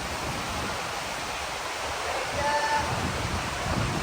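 Rushing mountain stream water, a steady rush, with a brief high call about halfway through.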